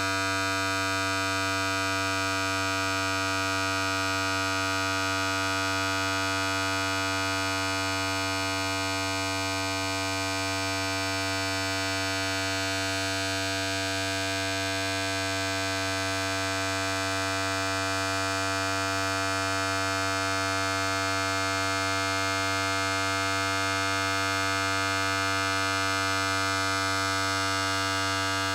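Electric hair clipper running continuously: a steady, unchanging buzz.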